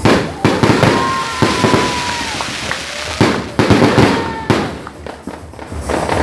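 Fireworks going off: a rapid, irregular series of sharp bangs over continuous crackling.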